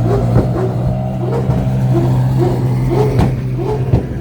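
A car engine running steadily at a constant speed. Short rising-and-falling tones repeat about twice a second over it.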